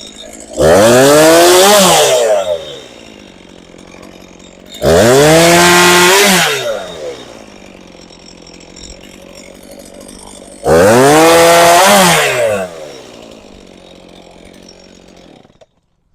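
A chainsaw idles and is run up to full throttle three times, for about two seconds each, cutting up a felled tree, then falls back to idle after each burst. The sound cuts off abruptly near the end.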